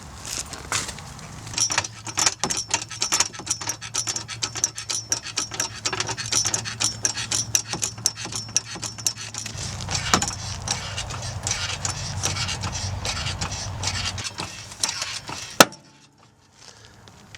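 Rapid, irregular clicking and scraping of hand tools at work on the car, over a low steady hum. It stops suddenly after a sharp click near the end.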